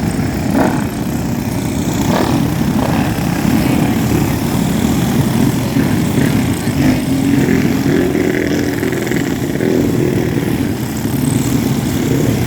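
Speedway motorcycles running on the track, a loud continuous engine noise whose pitch rises and falls as the bikes race.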